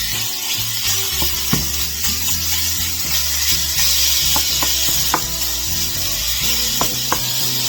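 Ground meat sizzling in a hot skillet, a steady hiss with several sharp scrapes and taps of a utensil breaking it up as it browns. Background music plays underneath.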